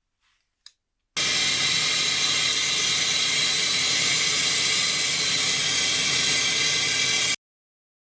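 A faint click, then a loud, steady hiss lasting about six seconds that cuts off abruptly.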